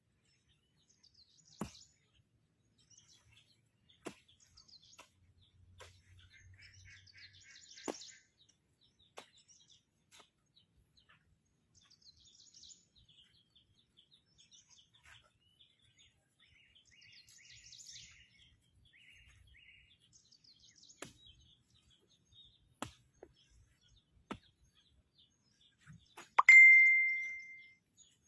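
Faint bird chirps with scattered light clicks, then near the end a single loud metallic ding that rings for about a second.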